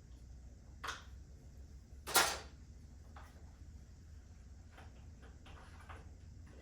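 Handling noises from unpacking: a short click about a second in, then a louder brief rustle about two seconds in, followed by softer clicks and rustles over a faint steady low hum.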